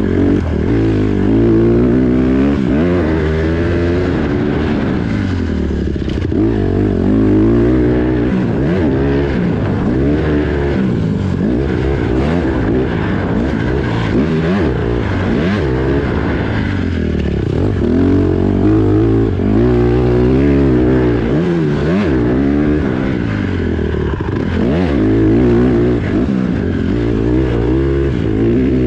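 Pit bike engine being ridden hard around a dirt track, revving up and easing off again and again, its pitch climbing and dropping every second or two with the throttle and gear changes.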